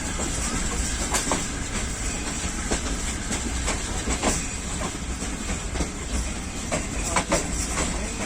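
Train passing on the track: a steady rumble of wheels on rail with irregular clacks as the wheels run over the rail joints.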